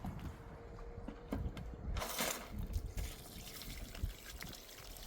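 Water trickling and being poured, with a louder rush of pouring about two seconds in, over low knocks and handling noise.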